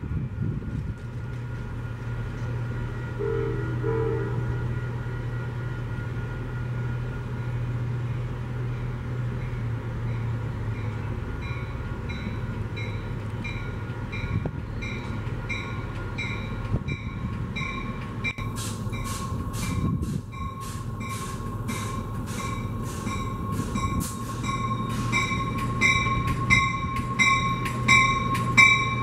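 A train running steadily with its locomotive engine humming. From about twelve seconds in, a bell rings over and over, and in the second half rapid, regular sharp strikes join it and grow louder toward the end.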